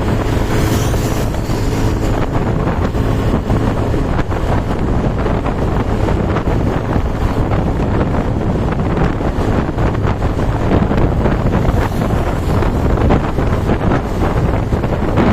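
Heavy wind buffeting the microphone over a steady engine hum, as on a moving vehicle or boat. The engine's tone is clearer in the first few seconds.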